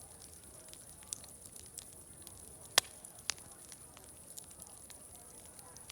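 Wood fire crackling, with scattered small snaps and one sharp loud pop about three seconds in, a second smaller pop just after, over a soft steady hiss.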